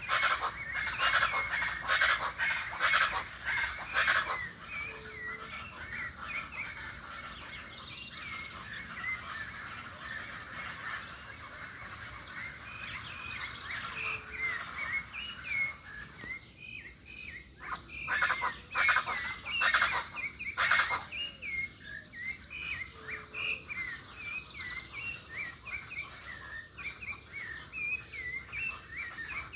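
Birds chirping steadily with many short repeated notes. Loud, harsh bursts come in a quick series over the first few seconds and again about eighteen to twenty-one seconds in.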